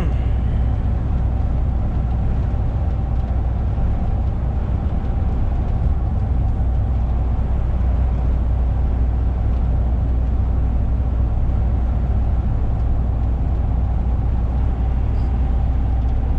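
Truck's engine and road noise heard from inside the cab while driving at a steady speed: a constant low drone.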